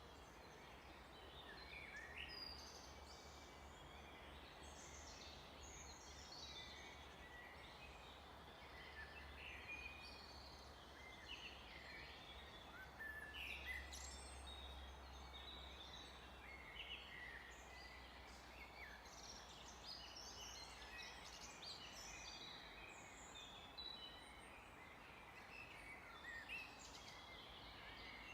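Several birds singing and calling in a forest: many short, overlapping chirps and trills over a faint steady hiss.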